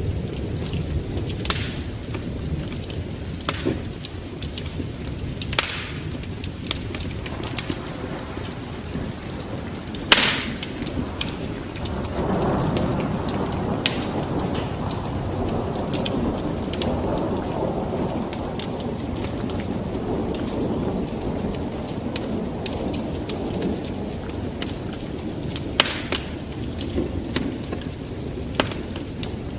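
Wood fire crackling, with irregular sharp pops over a steady low rumble. A deeper, broader rumble swells up about twelve seconds in and lingers.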